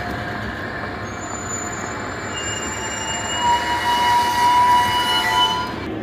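Container freight train wagons rolling past on jointed track, with the wheels squealing in several high steady tones. The squeal swells loudest between about three and a half and five and a half seconds in, then stops abruptly near the end.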